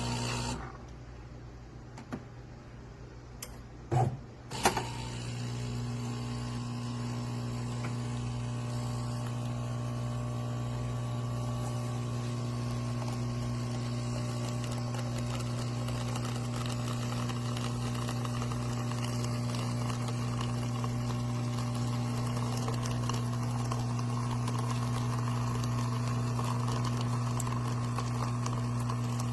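De'Longhi Dinamica espresso machine running its startup rinse: a few sharp clicks from the machine about four seconds in, then its water pump hums steadily as it flushes water out through the spout.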